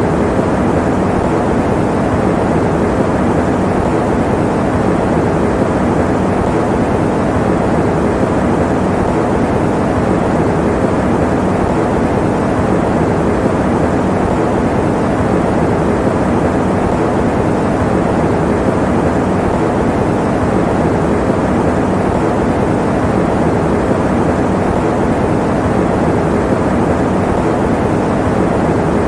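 Electric fan running steadily: an unbroken, dull noise, heavy in the lows and mids with little hiss.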